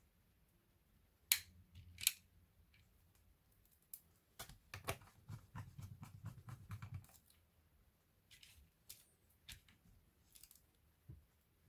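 Small sharp clicks and taps of laptop parts being handled and fitted, with two louder clicks early on and a quick run of rapid clicks in the middle, then scattered ones.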